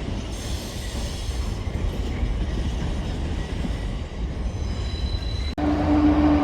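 Train moving through a station: a steady low rumble with faint high wheel squeal. About five and a half seconds in, the sound cuts off abruptly, then comes back louder with a steady humming tone from the train.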